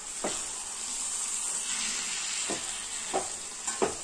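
Chicken masala sizzling in a metal pan on the stove, with a spoon knocking and scraping against the pan several times as it is stirred.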